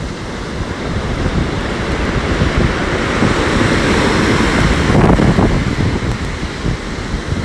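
Storm surf: a heavy wave surges in and breaks, swelling to its loudest about five seconds in and then easing, with strong wind buffeting the microphone.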